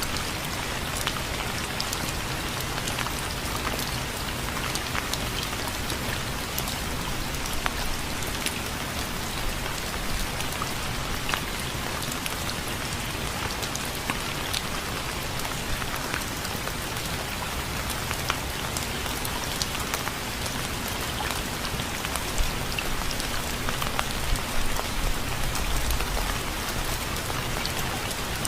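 Steady rain with many individual drops pattering on a surface.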